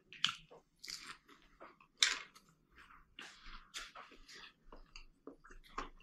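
Close-miked mouth sounds of a person biting and chewing a crispy fried-chicken zinger burger: irregular crunches of the crisp coating between softer chewing, with the sharpest crunches near the start and about two seconds in.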